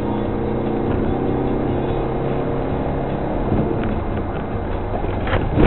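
Rally car engine running at steady revs, heard from inside the car, its note changing about three seconds in. A sharp knock near the end.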